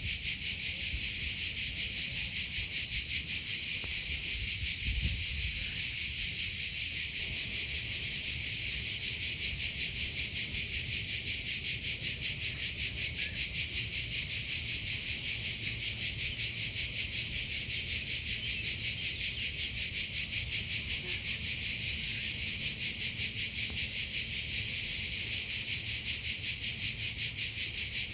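Cricket chirping: a steady, high-pitched rapid pulsing that goes on without a break.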